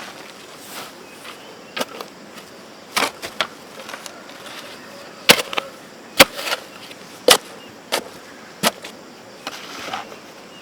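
A series of sharp, irregularly spaced knocks or impacts, about nine in all, the loudest a little past five seconds in.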